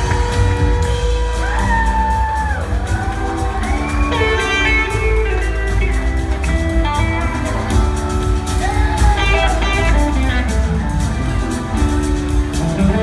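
Live blues-rock band playing: an electric guitar lead with held, bending notes and quick runs of notes over a full band.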